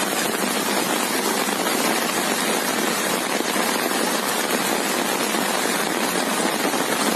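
Heavy rain pouring down in a storm: a steady, dense hiss with a fine crackle of drops.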